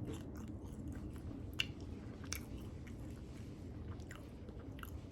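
Close-miked chewing of crispy lemon pepper chicken wings, with a steady wet mouth sound and scattered small crunches and clicks, the sharpest about a second and a half and two and a quarter seconds in.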